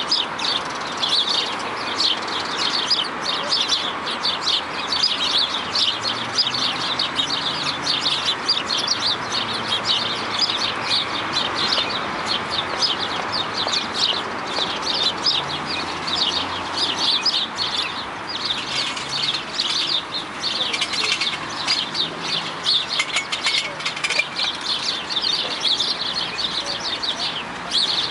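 Many small birds chirping rapidly and continuously, the calls overlapping into a dense twittering chorus.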